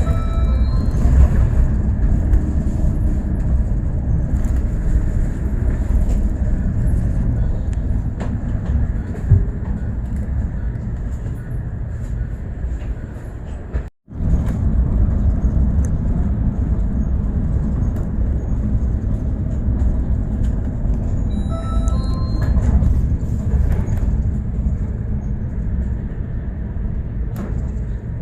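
Bus in motion heard from inside the cabin: steady low engine and road rumble. The sound cuts out for a split second about halfway through.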